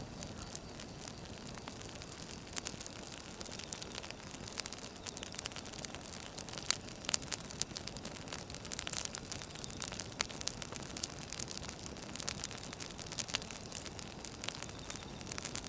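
Wood fire burning, with a steady hiss and frequent sharp crackles and pops from the logs.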